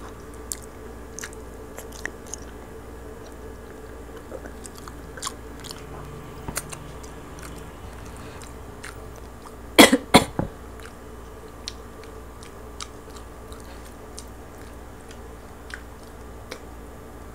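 Close-miked chewing of roast pig (lechon) meat, with small wet mouth clicks and crunches. About ten seconds in, a few loud sharp plastic snaps as a shaker bottle's flip-top lid is opened.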